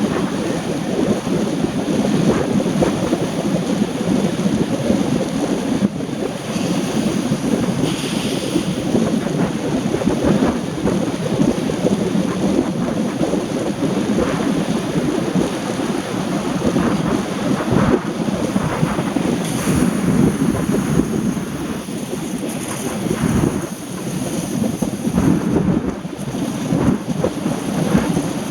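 Steady low rushing noise of a car driving in the rain: tyres hissing on the wet road and rain on the body, with scattered faint ticks.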